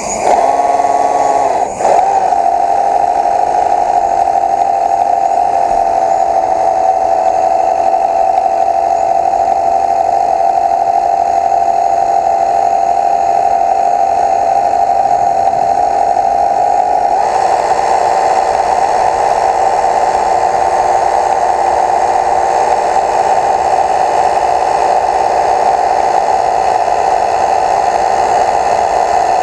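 Steady whine of a running motor with a held tone, briefly higher and dipping about two seconds in, then turning rougher and noisier about seventeen seconds in.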